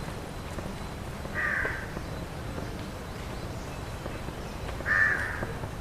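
A crow cawing twice, two short harsh calls about three and a half seconds apart.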